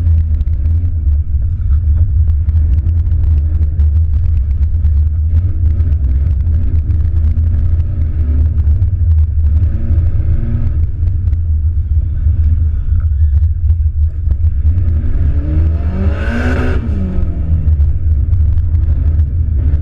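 Turbocharged 2.0-litre four-cylinder engine of a Mitsubishi Lancer Evolution heard from inside the cabin, revving up and dropping back several times over a heavy low rumble. About three quarters of the way through it revs sharply high and falls away again.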